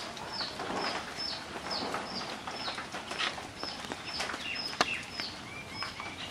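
A small bird calling over and over in short falling chirps, about two a second, with other bird chirps joining near the end. A few sharp cutting clicks, the loudest about five seconds in, as pumpkin is sliced on a boti blade.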